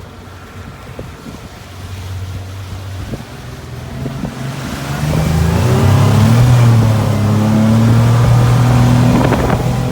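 The engine of a 2012 Hurricane 2400 boat accelerating from low speed: its pitch climbs and it grows much louder about five seconds in, then holds steady at speed, over the rush of wind and water.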